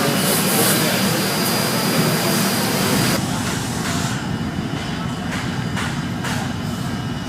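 Bus assembly-line machinery noise: a loud steady hiss with a thin high whine cuts off about three seconds in, leaving a steady low hum broken by several short sharp bursts.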